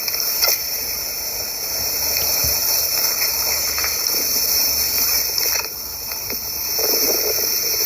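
A steady high-pitched hiss, with a few faint ticks and a short rustle near the end.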